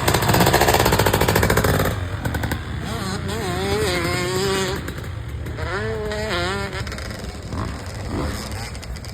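Motocross dirt bike engines: one revs hard and close for about two seconds, then engine notes rise and fall in pitch with the throttle as bikes ride.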